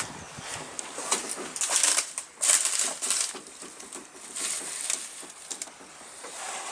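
Crunching and rustling of dry forest litter in several irregular bursts, the loudest about two and a half seconds in.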